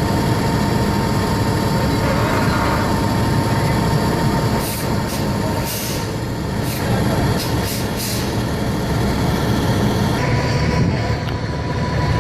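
Concrete pump truck's diesel engine running steadily with a low rumble and a steady whine, with a run of short, sharp hisses in the middle.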